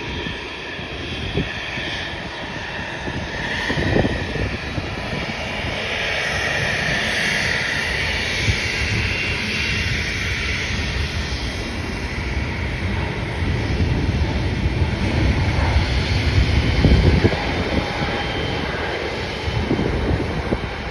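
Jet airliner's engines running continuously, with a high whine strongest about a third of the way through and a deeper rumble building toward the end, plus gusts of wind buffeting the microphone.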